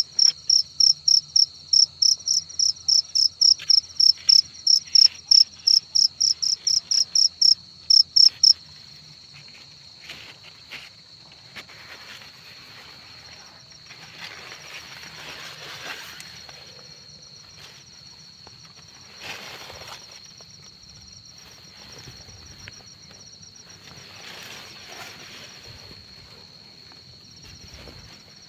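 A field cricket chirping loudly close to the microphone in a steady run of two to three chirps a second, falling silent about eight seconds in. A steady high insect drone and fainter, more distant cricket chirping continue behind it.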